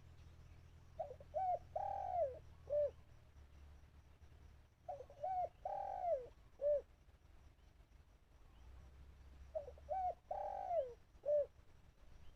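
Spotted dove, the trapper's decoy, cooing three times, about four seconds apart. Each phrase is a couple of short coos, one long drawn coo and a short closing note.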